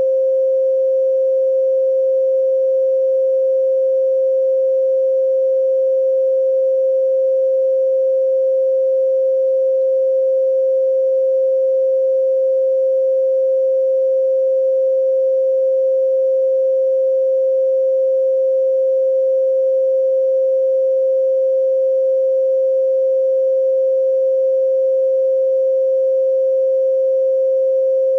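A single steady pure tone at 528 Hz, held without change.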